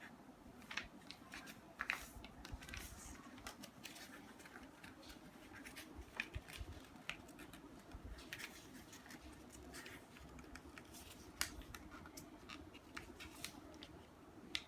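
A sheet of paper being folded and creased by hand: faint, irregular rustling and crinkling with scattered sharp crackles.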